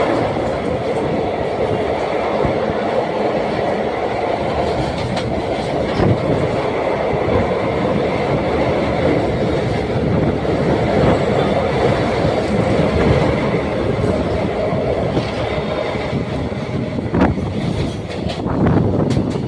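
Train running across the Yamuna railway bridge, a steel truss span: a steady rumble with wheels clattering over the rail joints and some wheel squeal, easing off near the end.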